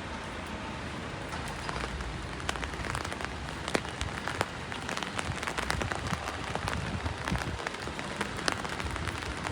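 Rain falling on hard surfaces, a steady hiss with many sharp drips and patters scattered through it, thicker from a couple of seconds in.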